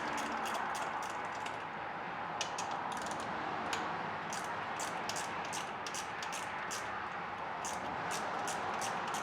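Socket ratchet clicking in short runs while it backs out the small 8 mm bolts holding the ignition coil of a Kohler lawn-tractor engine. There is a steady hiss underneath.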